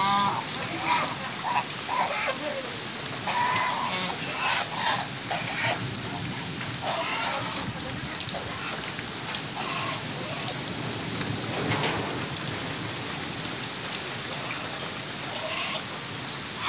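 Steady rain hiss on a flooded yard and puddle, with domestic geese giving short calls, most of them in the first few seconds and a few more later on.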